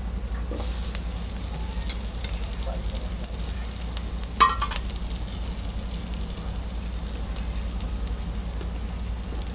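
Garlic and sliced onion sizzling in very hot cooking oil in a stainless steel pot. The sizzle grows louder about half a second in as the onion hits the oil. One brief sharp sound comes near the middle.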